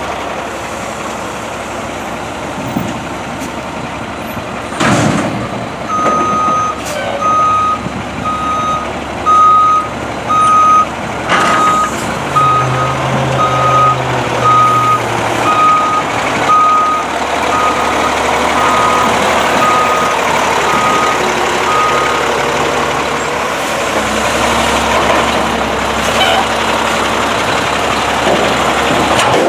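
Garbage truck's engine running while its reverse alarm beeps steadily about once a second for around sixteen seconds. A short sharp hiss of air comes just before the beeping starts.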